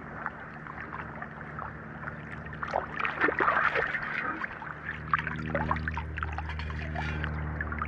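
Water sloshing and trickling, with many small splashes, most busily a little past the middle. A steady low drone, like an engine, swells up about five seconds in.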